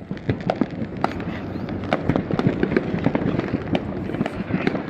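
Fourth of July fireworks and firecrackers going off all around, a dense, irregular run of sharp pops and crackles with no pause.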